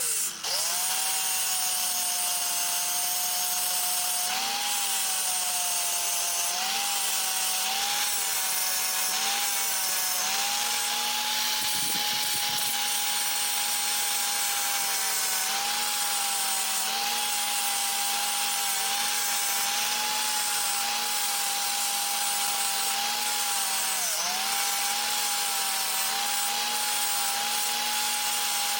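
Electric grinder running steadily, blending down welds on a steel dirt bike frame; its whine wavers and dips briefly as it is pressed against the metal. It spins down at the end, the pitch falling away.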